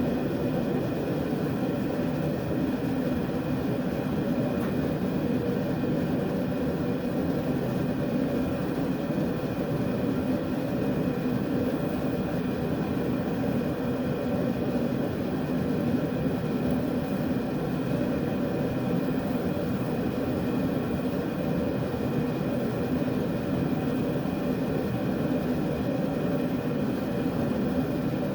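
Blacksmith's forge running with a steady, even noise, heating a forged coil-spring flint striker for thermocycling before the quench.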